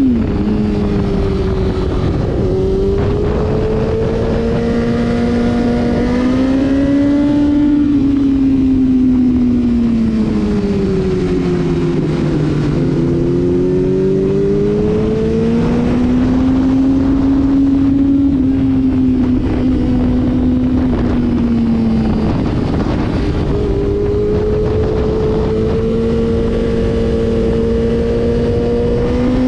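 Motorcycle engine running at speed on a track, its revs climbing, falling away to a low point about a third of the way through, then rising again and holding. A steady rush of wind noise sits under it.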